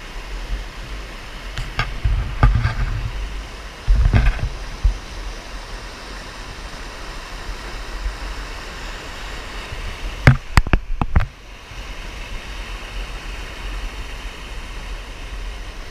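Creek water running steadily, with short bursts of low rumble on the microphone in the first few seconds and a cluster of sharp knocks about ten seconds in.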